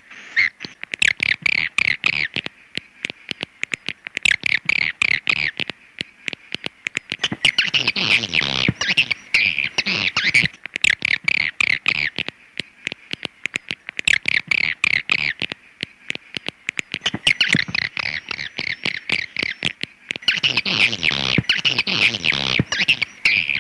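Swiftlet call recording: bouts of fast, chattering twitters, each a second or two to three long, repeating with short gaps, over a constant rapid clicking.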